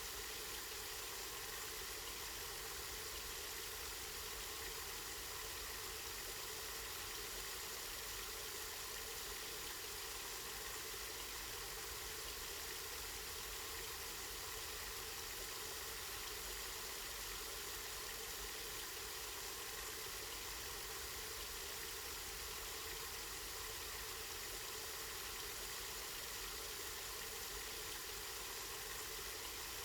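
Spring water flowing and splashing steadily: an even, unbroken hiss that does not change.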